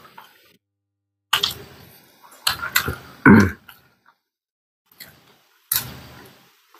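Close-up eating sounds: chewing and mouth smacking as rice and meat are eaten by hand. They come in several short bursts with silent gaps, loudest about halfway through.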